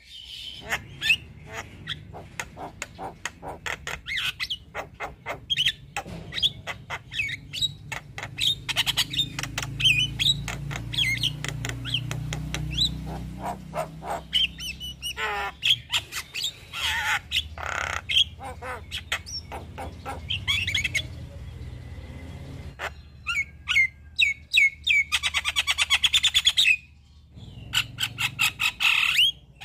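Javan myna singing a long, varied run of harsh squawks, clicks and short whistled notes, with a fast rattling trill near the end.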